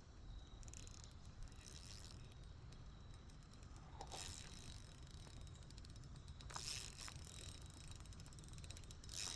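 Fishing reel clicking and whirring faintly as a hooked fish, a smallmouth bass, is reeled in. There are a few brief, slightly louder rushes along the way.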